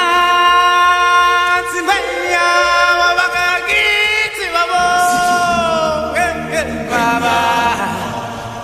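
Background music: a sung vocal chant with long held notes that slide from pitch to pitch.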